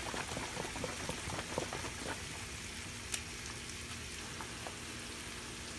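Squash and onions sizzling in olive oil in a frying pan, with many small crackles and pops for the first couple of seconds, then a softer steady sizzle. A single sharper click about three seconds in.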